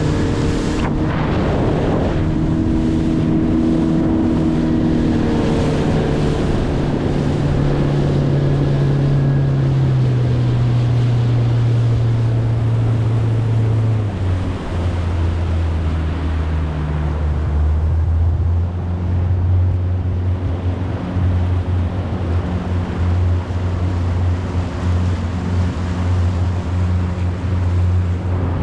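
Motorboat engine running steadily on the water, its pitch stepping down twice as it slows, with wind noise on the microphone.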